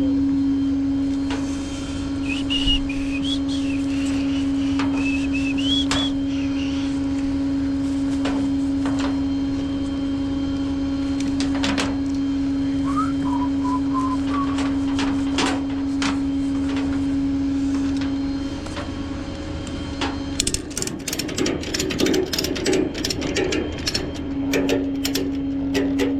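Tow truck's machinery running with a steady hum, which breaks off about eighteen seconds in for a run of sharp clicks and knocks before the hum comes back. A few short, high whistle-like chirps sound over the hum in the first half.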